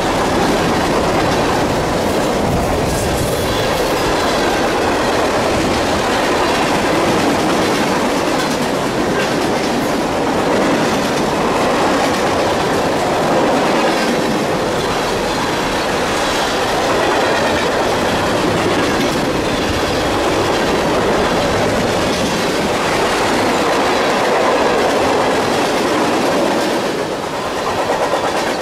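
CSX mixed freight train of tank cars and covered hoppers rolling past at speed: a steady loud rumble and clatter of steel wheels on the rails.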